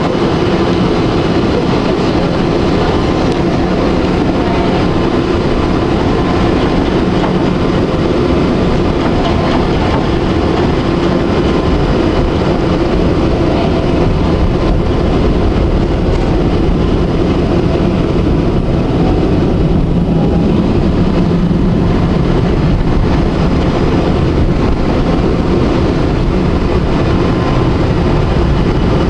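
Electric tram running along its rails: steady rolling and motor noise with a low hum, unbroken throughout.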